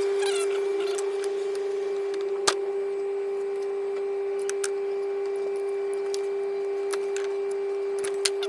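A steady mechanical hum at one constant pitch, with scattered sharp metallic clicks and taps; the loudest tap comes about two and a half seconds in, and another near the end.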